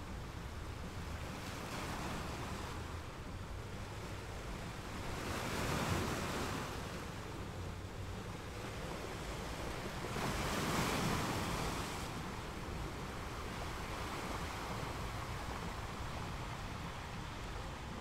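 Ocean surf washing onto a beach, with two louder breakers about six and eleven seconds in, and wind rumbling on the microphone.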